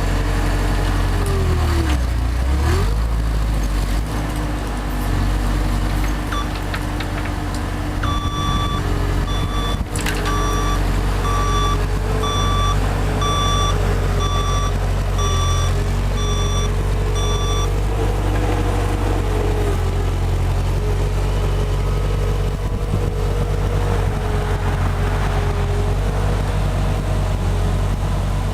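JCB 135 skid steer's diesel engine running steadily, its pitch dipping and rising again about two seconds in. Its reversing alarm beeps repeatedly, a bit more than once a second, for about ten seconds from roughly a quarter of the way in.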